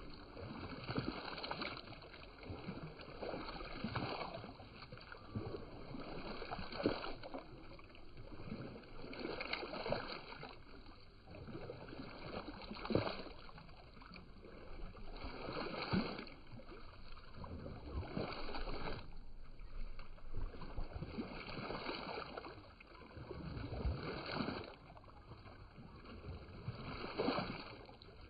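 Water sloshing and gurgling, with irregular louder splashy surges every two to three seconds.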